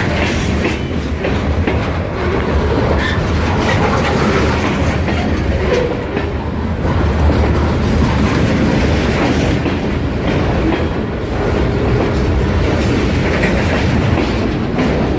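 Freight train cars rolling steadily past on the rails: a continuous low rumble with clicks as the wheels cross the rail joints.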